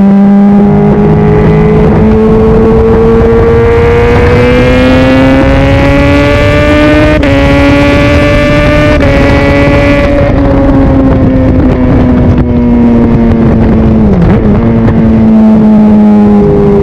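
Honda CBR600RR's inline-four engine running at high revs on the move. Its pitch climbs steadily for about seven seconds, holds, then eases back down, with a quick dip about fourteen seconds in before it settles back to where it started.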